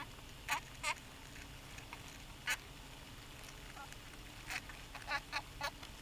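Short bird calls repeated about seven times, the last three in quick succession near the end.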